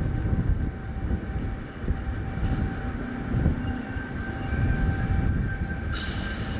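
Train running past with a heavy low rumble and a faint steady whine, and a sudden hiss near the end.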